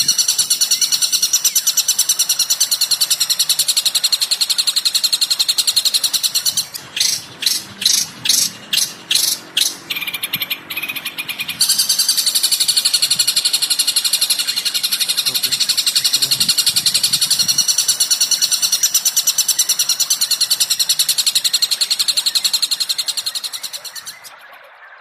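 Recorded songbird calls: rapid, high-pitched chattering, broken about seven seconds in by a run of about eight loud separate calls, then dense chattering again until the sound fades out near the end.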